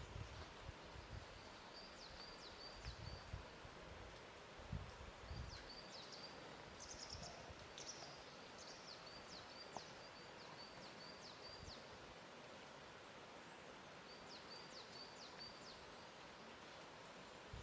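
Faint lakeshore ambience: water lapping in soft low thuds, mostly in the first few seconds, under a steady quiet hiss. A small songbird sings short phrases of quick, high, falling chirps several times over.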